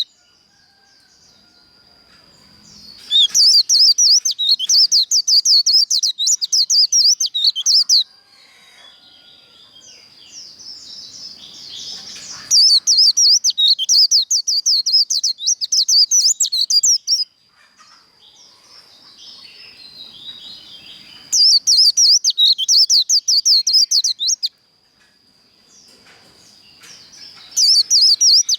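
White-eye (vành khuyên) singing its fast, chattering 'líu' song, the competitive song used to fire up other white-eyes. It comes in four loud bursts of about four seconds each, with softer twittering and a faint steady high tone in the gaps.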